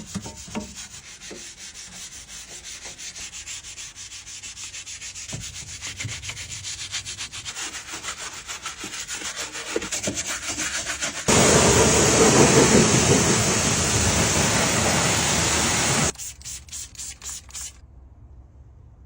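Quick rhythmic rubbing strokes. About eleven seconds in, a loud steady rushing hiss starts, runs for about five seconds and cuts off suddenly.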